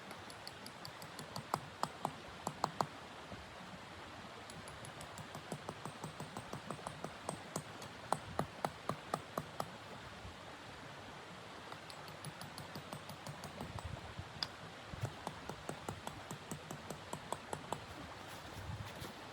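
Footsteps crunching in snow, evenly paced at about two to three steps a second in several runs with short pauses, over a steady hiss of wind.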